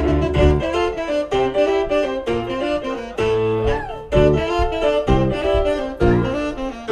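Live band music with a saxophone playing a melody over a bass line.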